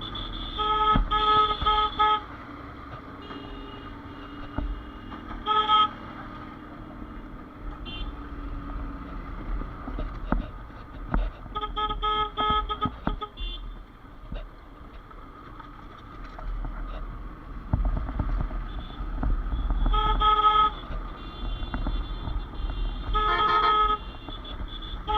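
A vehicle horn honking in short beeps, the same pitch each time, in about five bouts. Under it runs a low, steady rumble of wind and road traffic.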